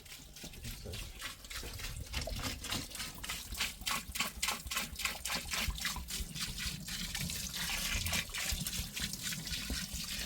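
Water splashing and trickling in quick, irregular splashes, growing louder after about a second.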